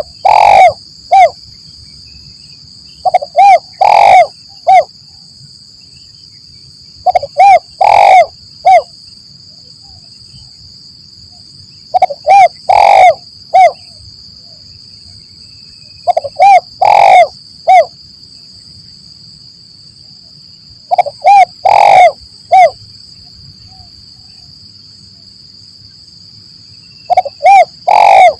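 Spotted dove (tekukur) cooing: a repeated phrase of two short notes, one longer loud coo and a short closing note, given about every four to five seconds. It is the kind of call trappers play to draw wild doves in. A steady high insect drone runs underneath.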